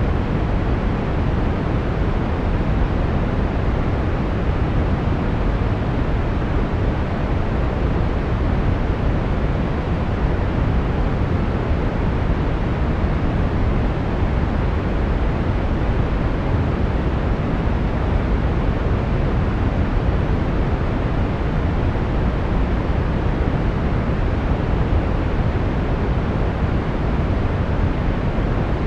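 Brown noise: a steady, even rumbling hiss, strongest in the bass and fading toward the highs, with no change throughout.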